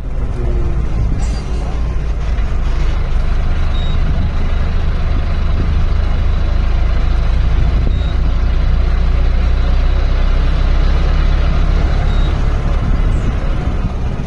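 Safari vehicle's engine running steadily while driving, a continuous low rumble with road and motion noise over it.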